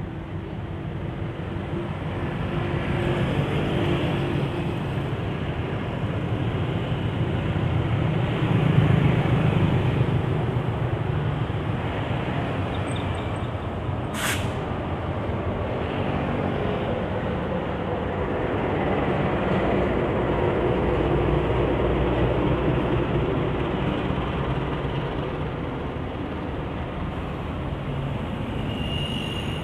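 Diesel-electric locomotive hauling a rail-crane train past, with the rumble of its engine and wagons mixed into steady street traffic of cars and motorcycles. A single sharp click about halfway.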